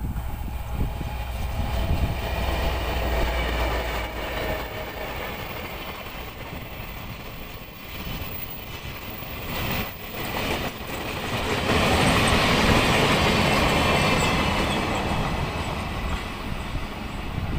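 Freight train led by a Taiwan Railway R100-class diesel-electric locomotive passing by. A low engine rumble comes first, then the wagons' wheels clatter over the rail joints, loudest about twelve to fifteen seconds in, with a high ringing from the wheels and rails.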